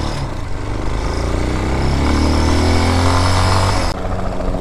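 Air-cooled 250cc dirt bike engine running under way, its pitch rising as it accelerates over the second half, then cutting off abruptly near the end.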